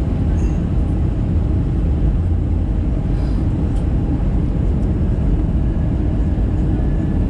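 Steady cabin noise of an Airbus A320-214 in descent, heard from inside the cabin: a low, even rumble of its CFM56 engines and the air rushing past the fuselage.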